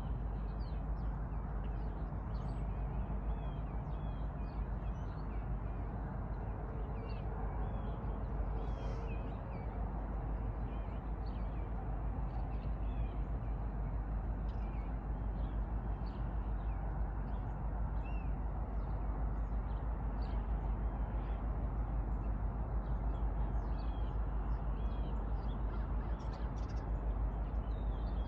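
Many birds chirping and calling in short, scattered notes over a steady low rumble.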